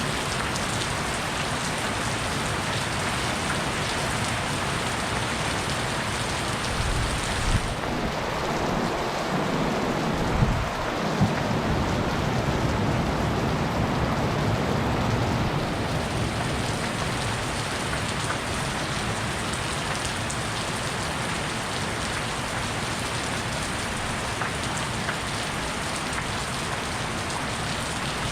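Heavy rain pouring steadily, with a rumble of thunder and a few sharp cracks from about seven to twelve seconds in.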